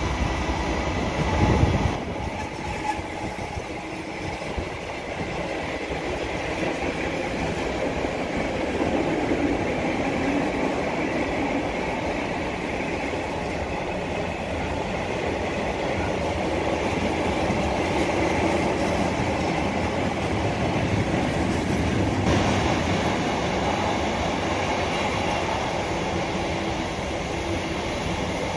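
Train passing on the track: a steady rolling noise of wheels on rails, a little louder with a faint tone for the first couple of seconds.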